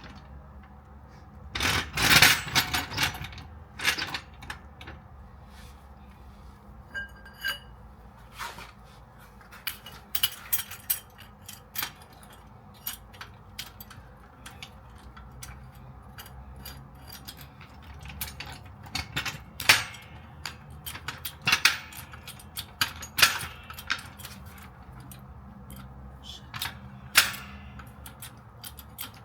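Scattered metallic clanks and rattles from a car jack and its handle being worked as the jack is lowered, the loudest cluster about two seconds in.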